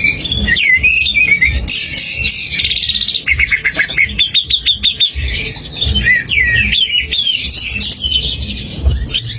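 Songbird singing continuously in fast, varied whistled phrases and chirps, with a quick run of repeated notes, about seven a second, through the middle.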